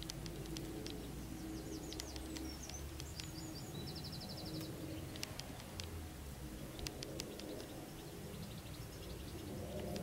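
Wild birds chirping outdoors: scattered short chirps and sharp chips, with a quick even trill about four seconds in, over a low steady background hum.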